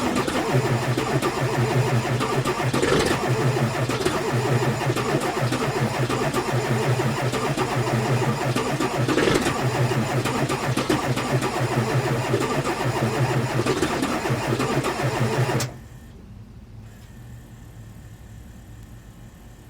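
LB7 Duramax 6.6 L V8 diesel engine of a 2002 Chevy 2500HD, cold-soaked at −15°F, running loud and steady, then cutting off abruptly about sixteen seconds in, leaving a faint steady background.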